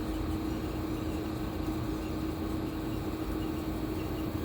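Steady low mechanical hum with a constant pitch over an even background rumble; no change or distinct events.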